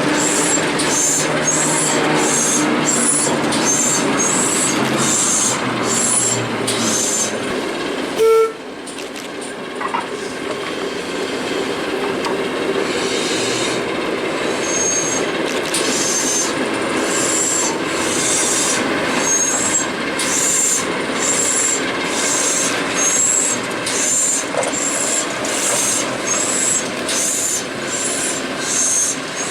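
Train running on the Severn Valley Railway, with a steady rhythmic beat of about two strokes a second. About eight seconds in comes one short, loud toot on the train's whistle, after which the running sound drops a little before the beat builds back up.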